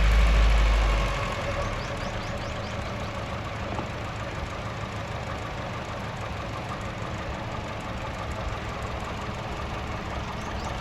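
Toyota Corolla GLI engine running steadily at idle, with a heavier low rumble for about the first second.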